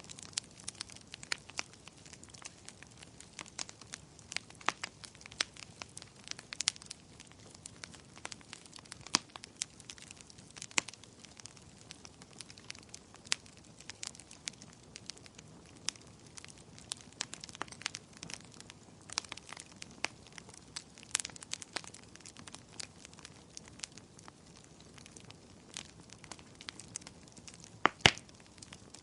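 Wood fire crackling in a fireplace: irregular snaps and pops over a soft hiss, with one louder pop near the end.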